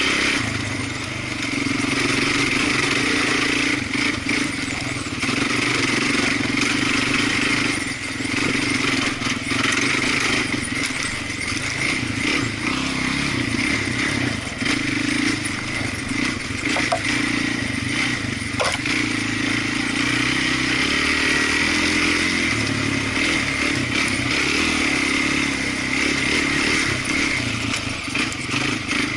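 A small off-road vehicle's engine running steadily while riding along a dirt trail.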